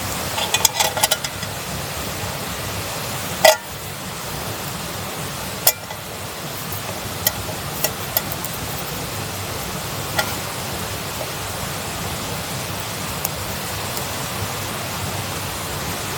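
A steady rushing noise, like running water, with scattered sharp clicks and knocks; the loudest knock comes about three and a half seconds in, a second one a couple of seconds later.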